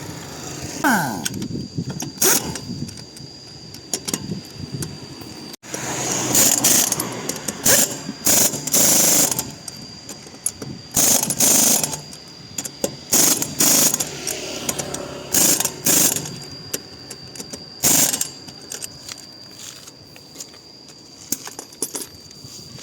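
Pneumatic impact wrench running in about a dozen short bursts of half a second to a second or so, with gaps between them, as lug nuts are run on or off a truck wheel. The bursts stop a few seconds before the end.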